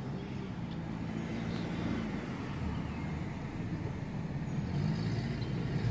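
A motor vehicle's engine running with a steady low drone, getting louder near the end.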